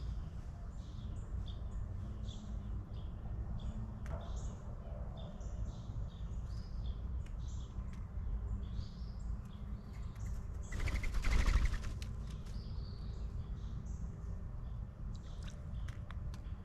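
Small songbirds chirping in short, repeated high calls, over a steady low rumble. About eleven seconds in, a louder burst of noise lasts about a second.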